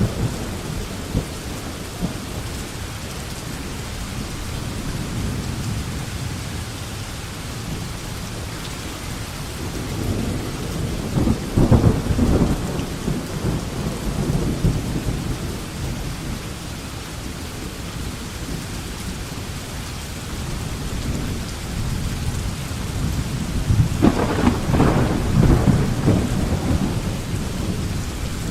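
Steady rain falling through a thunderstorm, with rolling thunder swelling up twice, once near the middle and again near the end.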